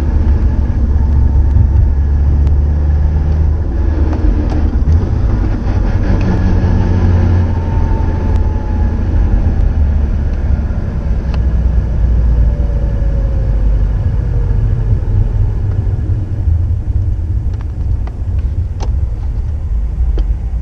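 Subaru Impreza GDB's EJ20 flat-four engine running through an STI Genome muffler, with a steady, loud low rumble from the exhaust.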